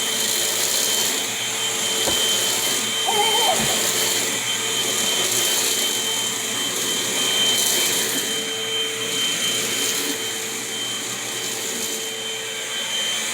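Vacuum cleaner running steadily, an even rushing noise with a constant high whine.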